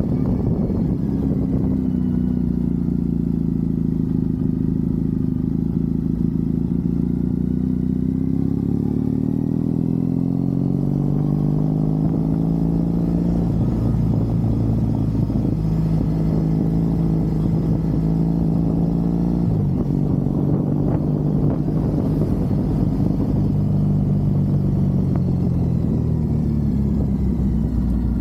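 Triumph Bonneville parallel-twin engine pulling on the road, its note slowly falling and rising with the throttle, with a quick dip in pitch about two-thirds of the way through.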